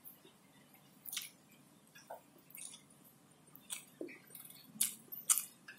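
Close-up eating sounds of a man chewing fried catfish and rice: scattered short wet smacks and clicks, a few louder ones near the end.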